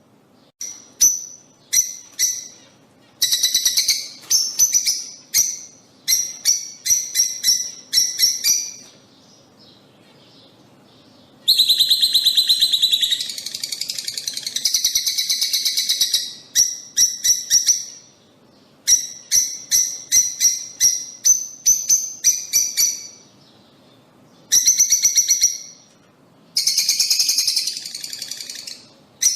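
Lovebirds calling in bouts of sharp, rapid chirps, with short pauses between the bouts. A long, fast run of chattering calls comes a little before the middle.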